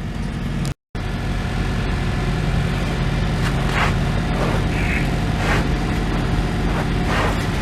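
Diesel truck engine idling steadily, a low even rumble with a few faint handling noises over it; the sound cuts out completely for a moment about a second in.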